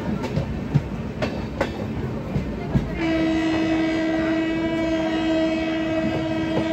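Express passenger train running on the rails, wheels clicking over rail joints under a steady rumble; about three seconds in, a train horn sounds one long, steady note.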